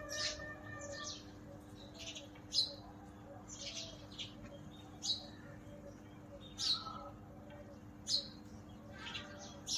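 Small birds chirping: short, high chirps about every half second to second and a half, over a faint steady hum.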